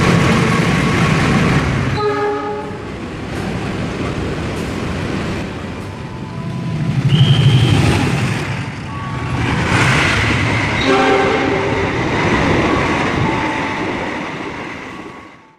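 Diesel locomotives hauling passenger trains past at close range: a heavy engine rumble with wheel noise on the rails. A multi-tone horn sounds about two seconds in, and horns sound again around nine to eleven seconds in, before the sound fades out near the end.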